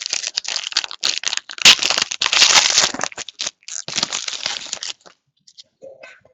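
Foil wrapper of a 2015-16 Hoops basketball card pack crinkling and tearing as it is opened by hand: a dense crackle, loudest about two seconds in, that stops about five seconds in.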